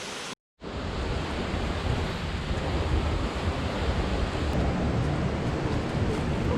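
Steady roar of a waterfall, with a deep rumble under the rushing water, starting abruptly at a cut just after the start.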